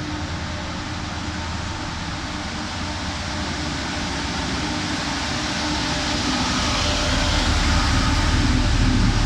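Class 68 diesel locomotive drawing into the platform, its engine running with a steady hum and low rumble that grows gradually louder as it approaches.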